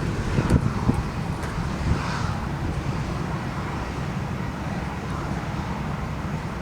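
Wind buffeting the microphone in gusts during the first second, over a steady low rumble of outdoor traffic and aircraft noise.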